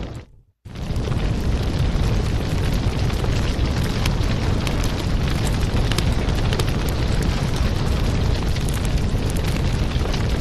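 Wood fire in a fireplace crackling: a steady low rumble with frequent sharp little crackles and pops. Just after the start it fades out to silence for about half a second, then comes straight back.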